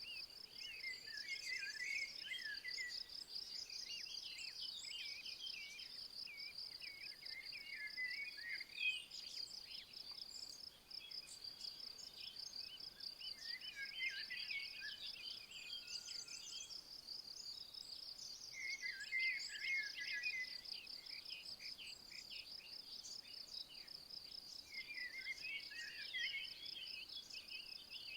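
A steady, high-pitched, fast-pulsing insect trill runs throughout. Over it a songbird sings short phrases of about two seconds, repeated every five or six seconds.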